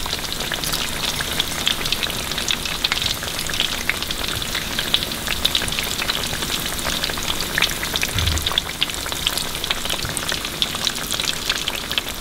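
Battered catfish strips deep-frying in hot cottonseed oil in a stainless steel pan: a steady, dense crackle and sizzle.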